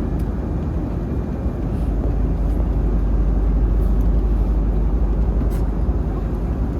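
Steady low rumble of noise inside a moving vehicle's cabin, heavy in the bass, with a few faint clicks.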